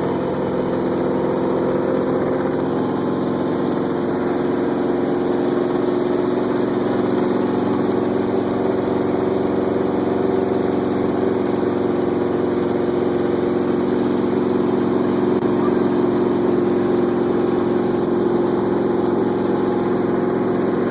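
Helicopter running steadily on the ground, its engine and rotor giving a constant, even drone with no revving up or down.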